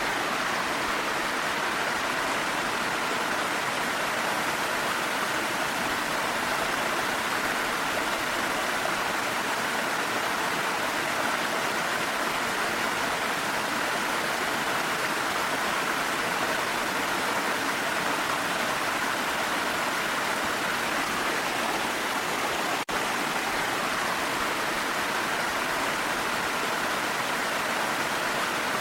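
Steady rushing water of a waterfall mixed with falling rain, an even, unbroken roar, with a split-second dropout about 23 seconds in.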